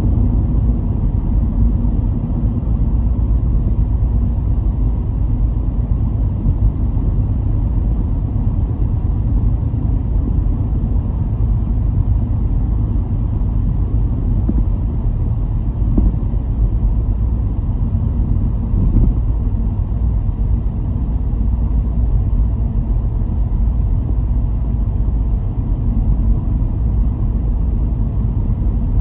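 A car driving along: a steady low rumble of road and engine noise, with a couple of light bumps about halfway through.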